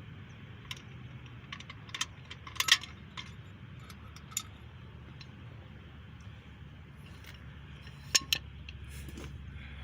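Scattered light metallic clinks and taps as steel parts are handled: the camshaft bearing removal tool and the just-removed cam bearing knocking together. The sharpest clinks come a little under 3 seconds in and again about 8 seconds in, over a faint steady low hum.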